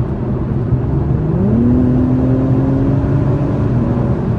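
2021 Acura TLX Type S's turbocharged 3.0-litre V6 accelerating, heard from inside the cabin over a steady road rumble. Its pitch rises about a second in, holds, then dips slightly near the end.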